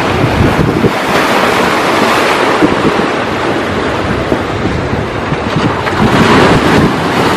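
Ocean surf washing ashore with a steady rush, swelling a little near the end, with wind buffeting the microphone.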